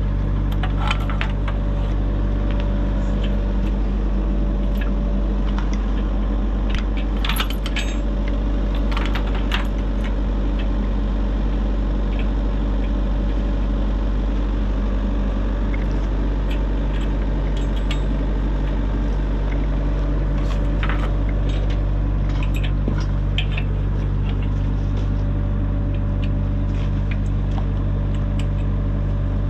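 A heavy machine's diesel engine running steadily at a constant speed, with scattered metallic clinks and knocks, most of them about seven to ten seconds in.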